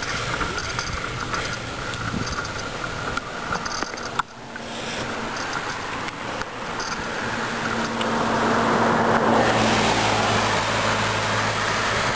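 A car going by on the road, its engine and tyre noise swelling from about halfway and loudest around two-thirds through.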